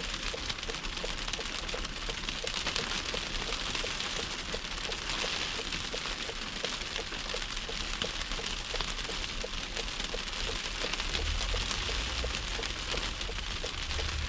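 Steady hiss of a car driving through a snowstorm, with a faint regular ticking about three times a second. A low rumble comes in about eleven seconds in and grows louder near the end.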